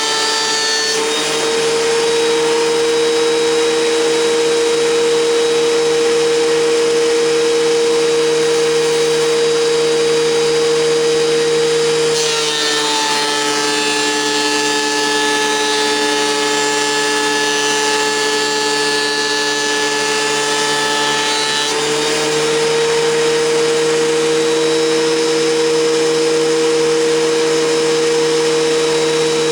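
WEN 6552T 13-inch thickness planer running with a steady high whine. About a second in, its pitch rises as a board clears the cutterhead. A little before halfway, the pitch drops under load and a rushing cutting noise joins it for about ten seconds as another board feeds through, then the motor rises back to its free-running pitch.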